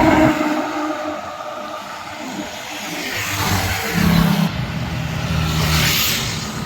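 Highway traffic: vehicle engines running, with tyre and engine noise swelling twice as vehicles pass.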